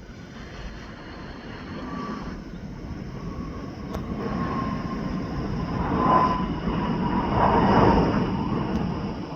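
Jet airliner's engines passing: a rushing noise with a faint whining tone grows steadily louder, loudest a little past the middle and toward the end.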